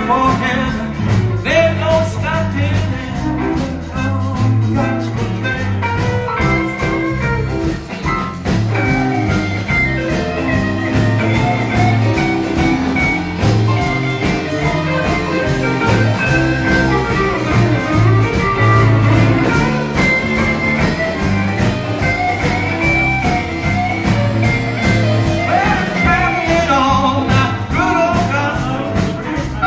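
Live blues band playing a song with a steady drum beat, bass and guitar, and a lead line of held, bending notes.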